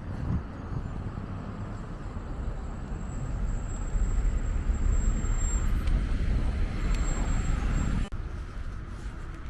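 Street traffic rumbling past, mixed with wind buffeting the microphone. The rumble swells about four seconds in, then drops off suddenly about eight seconds in.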